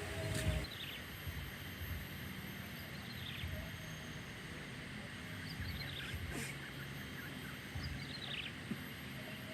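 Forest ambience with a bird giving a short call of falling notes about every two and a half seconds, over a steady high background hum.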